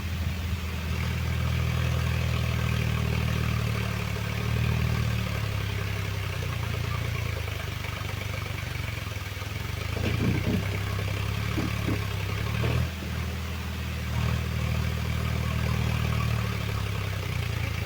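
Tractor diesel engine running steadily, its level swelling and easing a few times, with a few brief clatters about halfway through.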